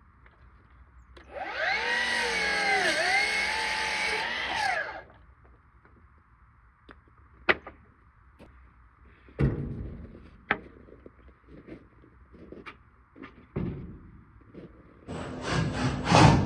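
A power tool runs for about four seconds, its whine dipping in pitch and recovering several times as it loads and unloads. Scattered sharp knocks and taps follow, then music starts near the end.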